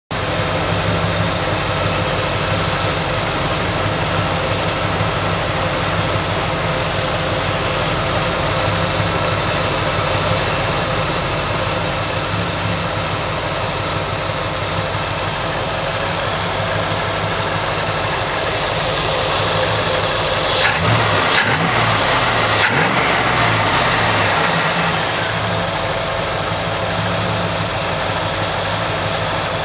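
A 350 Chevy small-block V8 with a four-barrel carburettor and a new Erson camshaft (214/224 duration, 112° lobe separation) idling steadily. About twenty seconds in the engine speed rises briefly and there are a few sharp clicks before it settles back to idle.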